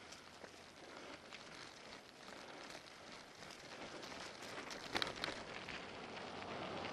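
Crackling, rustling noise of a bicycle ride on a camera microphone, from wind and tyres, slowly getting louder, with a few sharp clicks about five seconds in.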